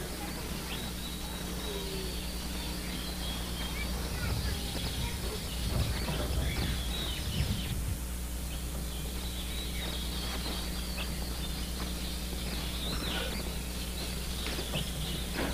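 Faint bird chirps over a steady low hum and hiss.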